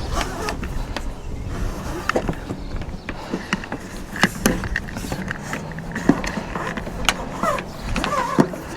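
Solar panel cable being pulled through a roof cable gland on a van: scattered light clicks and knocks of the cable and fittings being handled, over a faint low hum.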